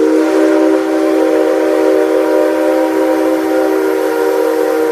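Steam locomotive whistle sounding one long, steady blast: a chord of several tones held level, with a hiss of steam over it.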